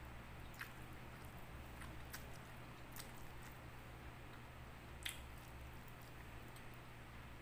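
Faint eating sounds: soft, wet mouth clicks and smacks of chewing rice and fish eaten by hand, with a few scattered ticks, the sharpest about five seconds in.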